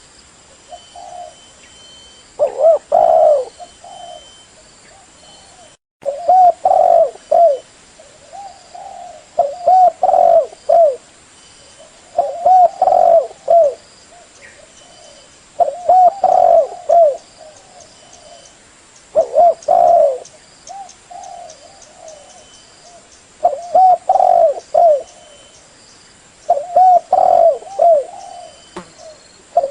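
Spotted dove (tekukur) cooing: a short phrase of a few coos, repeated about every three to four seconds, the call used to lure doves. Faint high chirps of other birds run behind it.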